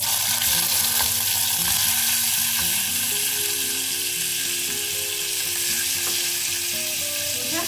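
Tomato wedges dropped into hot oil in a nonstick frying pan: a loud sizzle that starts suddenly and keeps going steadily as the pieces are stirred with chopsticks.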